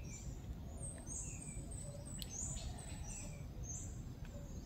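Small birds chirping: repeated short, high-pitched chirps that slide downward, about two a second, with a few lower chirps among them, over a steady low rumble.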